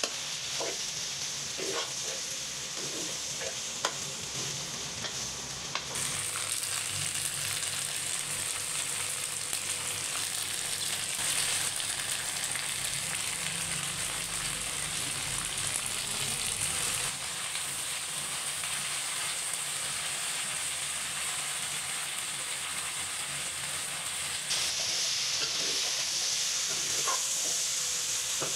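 Sliced okra sizzling in hot oil in a pan while a spatula stirs it, with a few scrapes and clicks of the spatula against the pan near the start and near the end. The hiss changes abruptly at a few points.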